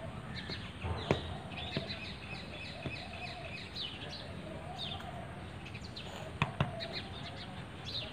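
Small birds chirping over and over in short, quick falling notes, with a few sharp taps about a second in, near two seconds, and twice in quick succession past six seconds.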